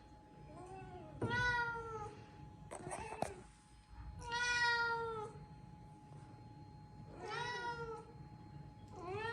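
A domestic cat meowing repeatedly: about five separate meows, each well under a second to about a second long, falling in pitch at the end, with pauses of one to three seconds between them.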